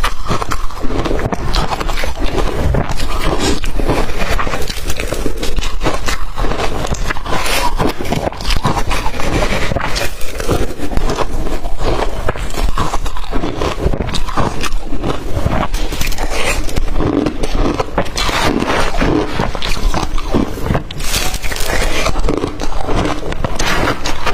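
Close-miked crunching and chewing of blender-crushed ice, a dense run of irregular crackles and crunches, with swallowing between bites.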